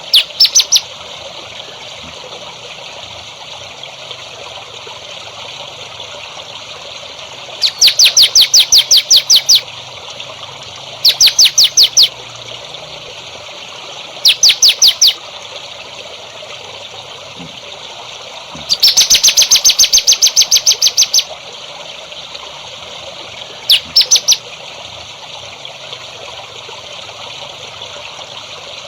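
A songbird calling in six bursts of rapid, evenly repeated sharp chirps, about nine a second. The longest burst runs about two seconds. Behind it a steady trickle of water runs throughout.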